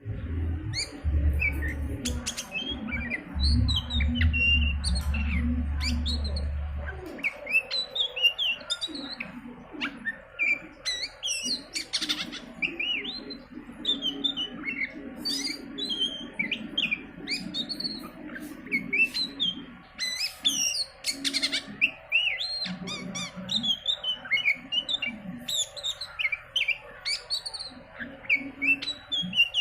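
Oriental magpie-robin (kacer) singing: a busy, continuous run of short whistled and chirping notes. A low rumble underlies the first seven seconds or so and then stops.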